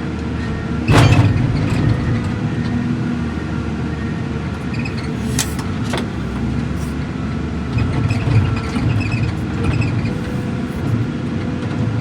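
An engine running steadily, with a sharp knock about a second in and a few lighter clicks and rattles later.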